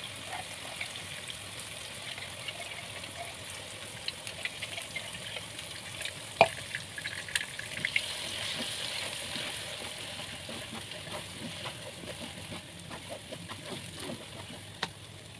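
Blended spice paste sizzling as it fries in hot oil in a pan, with a spatula scraping and tapping against the pan. There is one sharp knock about six seconds in, and the sizzle swells for a couple of seconds around eight seconds in.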